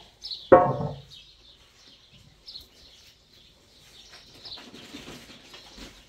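Small birds chirping over and over, with one short, loud call about half a second in.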